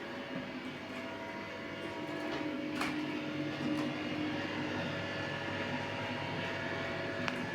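A steady mechanical hum made of several held tones over a soft hiss, with a faint click about three seconds in and another near the end.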